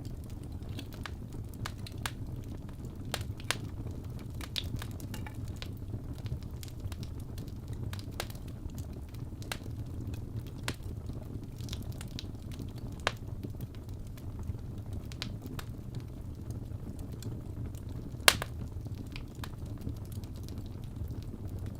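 Birch logs burning in a fireplace: a steady low rumble of flames with scattered crackles and pops. A loud sharp pop comes about eighteen seconds in.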